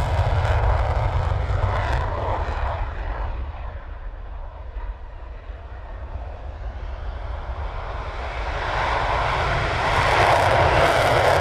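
Eurofighter Typhoon's twin EJ200 jet engines, a loud continuous roar with a deep rumble underneath that fades away a couple of seconds in, then grows loud again in the last few seconds.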